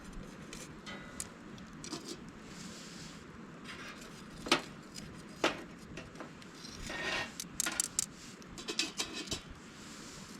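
Cookware and utensils being handled: scattered light clicks and clinks, two sharp knocks about halfway, then a run of quicker clinks and rustling.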